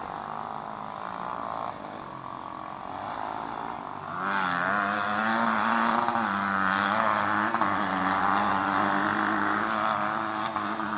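Motocross dirt bike engine revving, its pitch rising and falling, much louder from about four seconds in.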